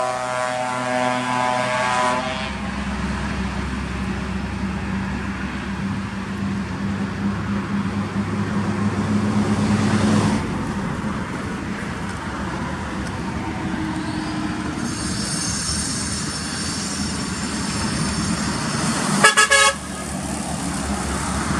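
Truck horns: a loud chord-like blast that cuts off about two seconds in, then steady truck engine and road noise, and a second short, loud horn blast near the end.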